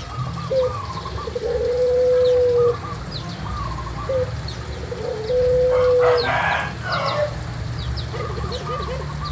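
Birds calling outdoors: a long, level, low hooting or cooing note repeated twice, each lasting about a second, over many short, high, falling chirps from small birds, with a harsher, rougher call about six and a half seconds in.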